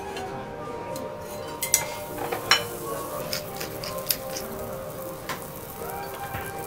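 Slice of foie gras sizzling as it sears on a steel teppanyaki griddle, with several sharp clinks of metal spatulas against the hot plate.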